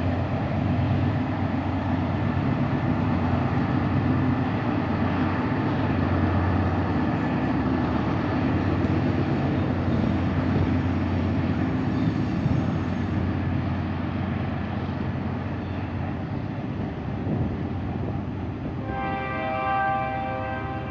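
BNSF GE diesel-electric locomotives (Dash 9-44CWs by the uploader's guess) working hard at full throttle, notch 8, hauling a heavy train up a steep grade; a steady, loud engine drone that eases off a little past the middle. Near the end a held chord of several tones comes in.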